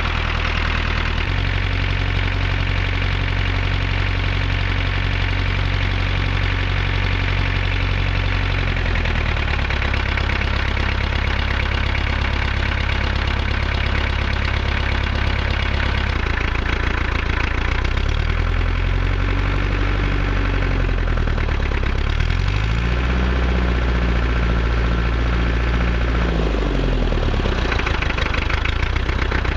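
International B275 tractor's four-cylinder diesel engine running cold with diesel knock. Its revs step up about a second in and hold, drop back around nine seconds, then rise and fall twice more in the second half.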